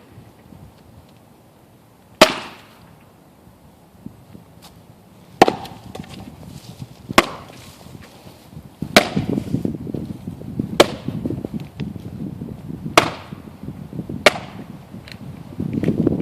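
Axe striking oak rounds being split for firewood: about six sharp chops, one to three seconds apart. A low rumbling noise runs under the later strikes.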